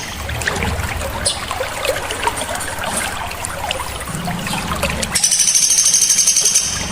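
Recorded songbirds: scattered short chirps and clicks over a trickling background, then about five seconds in a fast, very high trill of rapidly repeated notes lasting about a second and a half.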